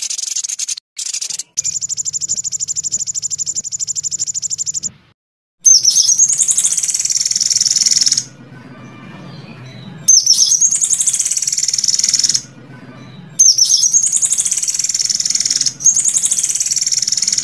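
Recorded songbird calls from a song-tutor track: a few short high chirps, then a fast, even, dry rattling trill, then loud high-pitched song phrases of about two seconds each, repeated with short gaps.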